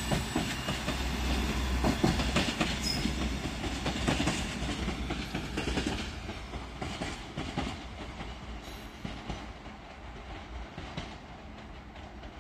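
SA132 diesel railcar pulling out of the station, its wheels clattering over rail joints and points with scattered clicks over a low rumble. The sound fades steadily as it moves away.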